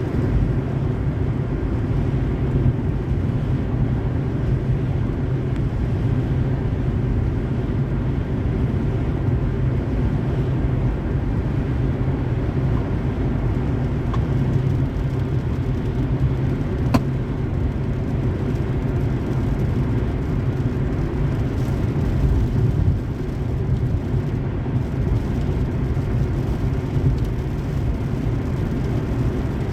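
Car driving at highway speed: a steady low rumble of tyres and engine, with a single short click about halfway through.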